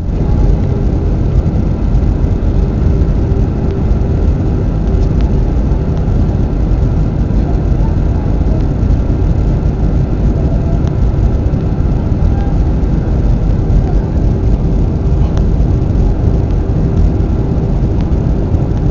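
Airbus A320 cabin noise in flight: a steady, loud low rumble of engines and airflow heard from inside the cabin, with a faint steady hum running through it.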